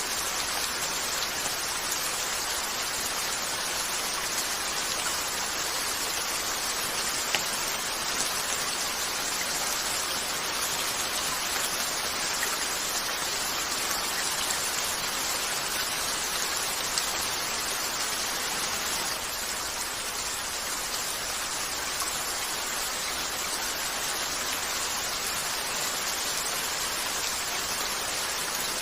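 Steady rain falling on a window, an even hiss, with a few faint isolated clicks.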